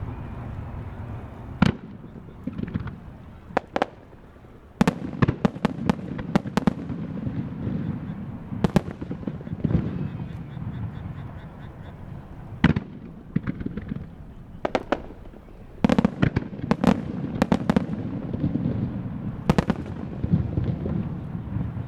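Starmine fireworks barrage: aerial shells bursting with sharp bangs in quick clusters, over a low rumble of further bursts and echoes.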